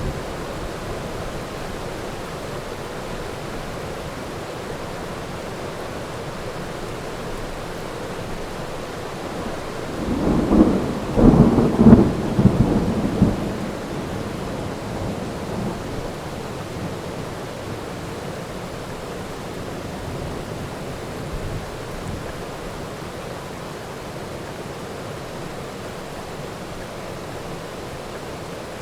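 Steady heavy rain with a thunderclap about ten seconds in: a crackling, rumbling peal lasting roughly four seconds, then rain alone again.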